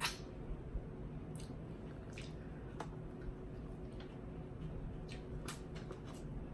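Mouth noises of eating saucy chicken wings: wet smacking and chewing with scattered sharp clicks at irregular intervals.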